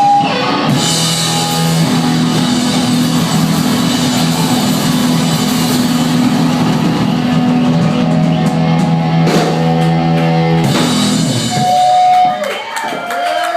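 Live rock band playing an instrumental passage: loud, distorted electric guitar chords over a drum kit. The full band stops about eleven seconds in, leaving a few ringing guitar notes that waver in pitch.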